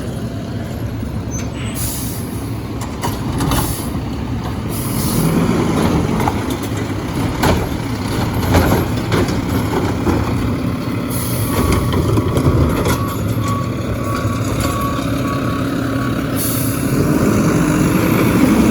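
Garbage truck engine running, with short hisses of air brakes. Past the middle comes a run of reversing beeps, and near the end the engine rises in pitch.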